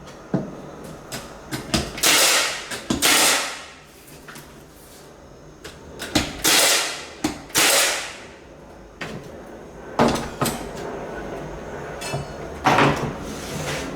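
Hardwood flooring installation work: a series of sharp knocks and clatters with about six short rushing or scraping bursts, as boards and tools are handled.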